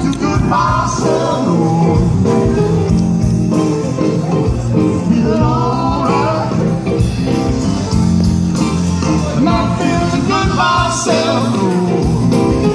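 Live band playing a rock song, with drums keeping a steady beat under guitar and bass and a singing voice.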